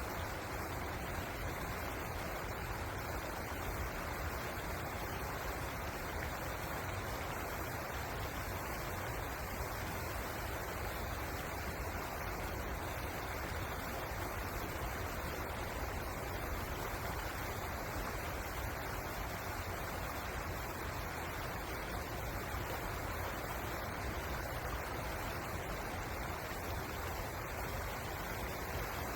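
River water rushing steadily, an even unbroken noise with a deep rumble underneath.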